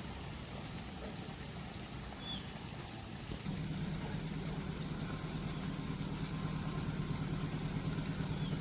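Vehicle engines idling. A deeper, louder engine hum comes in about three and a half seconds in and holds steady.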